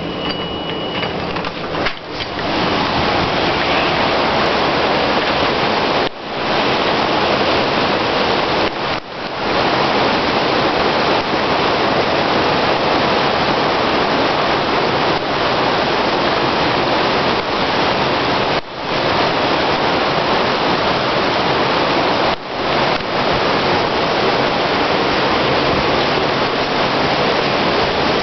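Heavy rain pouring down steadily, a dense even hiss, with a few brief dips in level every several seconds.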